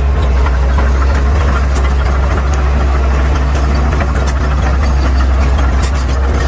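Diesel engine of a Caterpillar D6R XL bulldozer running steadily with a heavy low drone, with scattered light clicks and rattles over it.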